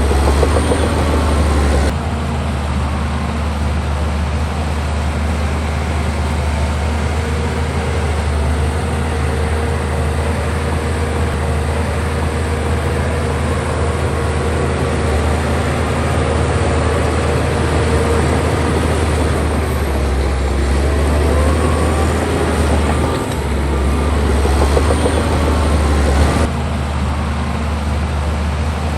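Heavy diesel earthmoving machinery running with a steady deep drone and a faint whine above it. The sound shifts abruptly about two seconds in and again near the end.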